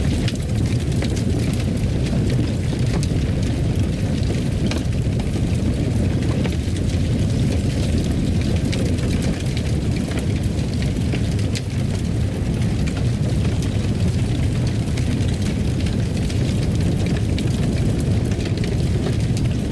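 Fireplace fire crackling, with a steady low rumble and many small scattered pops.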